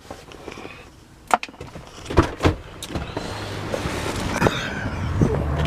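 Handling noises in and around a pickup truck: scattered sharp clicks and two heavier thumps about two seconds in, then a low steady hum building over the last couple of seconds.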